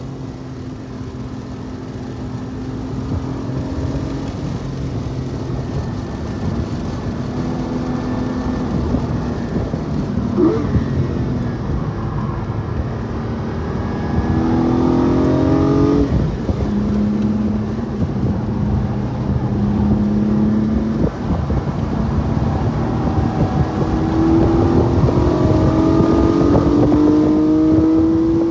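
Porsche 718 Cayman GT4's 4.0-litre flat-six engine under track driving: the engine note climbs hard, drops suddenly at a gear change about halfway through, holds level, then climbs again toward the end, over steady road and wind noise.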